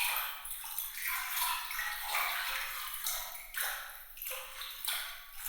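Bright, glittering water sound effect: swells of splashing, running water that rise and fade about once a second, thin and high with no low end.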